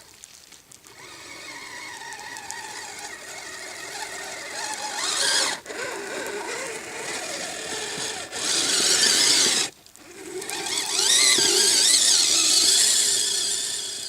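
Electric drive motors and gearboxes of a Kyosho Blizzard SR radio-controlled snow cat whining, the pitch rising and falling with the throttle. The whine cuts out briefly about halfway through and again for a moment about two-thirds in, and is loudest near the end.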